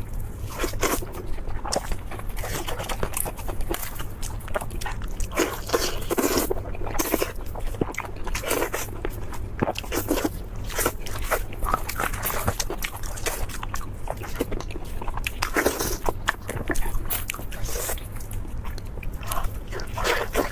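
Close-miked eating of lamb chops: irregular crunchy bites and wet chewing, with a steady low hum underneath.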